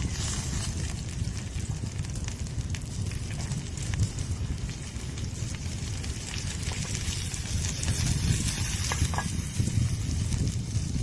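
Wood campfire crackling with scattered small pops, over a steady low rumble.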